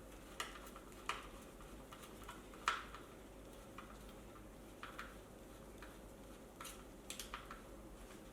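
Hand tools and bolts clicking and clinking while the wheel is bolted back into an electric unicycle's frame: a dozen or so light, irregular clicks, the loudest about three seconds in.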